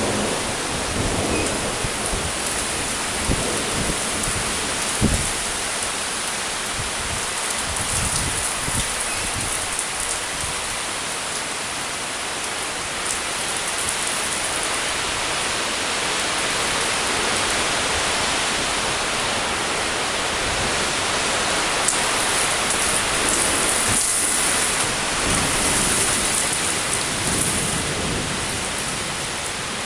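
Heavy rain pouring steadily during a thunderstorm, with a few brief low rumbles in the first several seconds. The downpour grows a little louder about two thirds of the way through.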